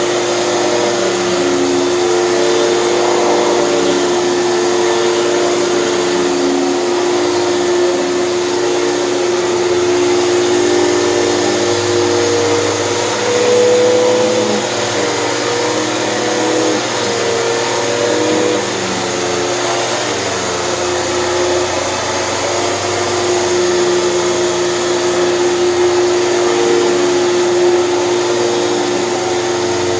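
Hoover canister vacuum running steadily with the TurboPower 5000 power nozzle: a continuous motor whine over airflow hiss, its pitch wavering slightly as the load changes while it cleans.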